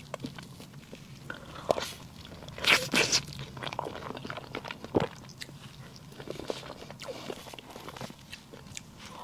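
Close-miked eating of cake: wet mouth clicks and chewing, with a few louder crackly bursts about three seconds in and a sharp click about two seconds later.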